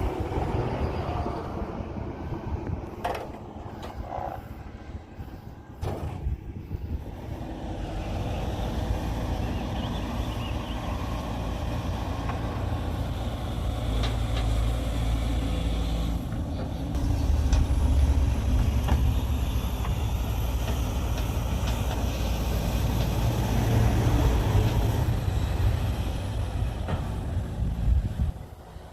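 Heavy diesel machinery running with a deep rumble that swells and eases as the load changes. A few sharp metal knocks come in the first several seconds.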